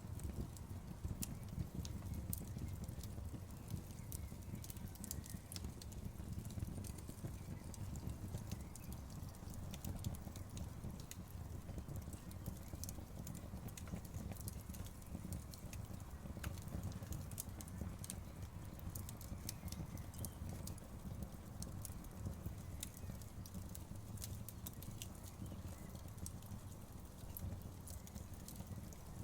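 Campfire crackling: many sharp, irregular pops and snaps over a steady low rumble of the burning fire.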